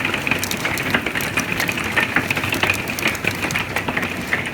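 Heavy rain falling hard: a steady rush with a dense patter of drops striking.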